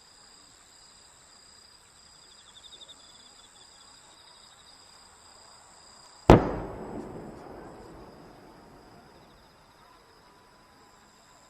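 A single loud firework bang about six seconds in, echoing and dying away over about two seconds, over a steady background of insects chirping.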